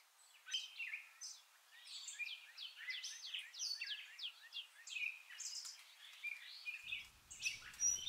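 Songbirds chirping: a busy, continuous run of short, quick chirps, mostly sweeping down in pitch.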